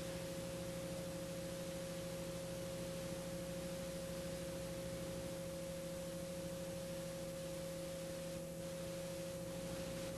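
Garrett TPE331 turboprop engines running steadily during a ground run-up: an even, high-pitched whine over a lower drone, with no change in pitch.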